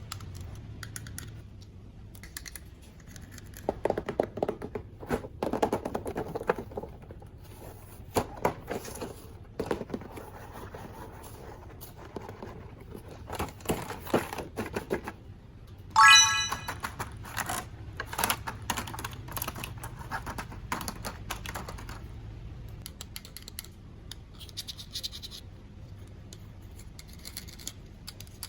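Plastic toys and packaging being handled: irregular clicks, knocks and scratching. About sixteen seconds in, a brief high-pitched tone is the loudest sound.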